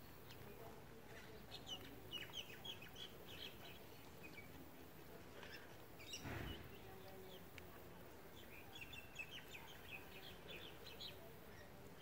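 Faint birds chirping, with many short high calls in quick clusters near the start and again near the end. A brief rustle of soil comes about six seconds in.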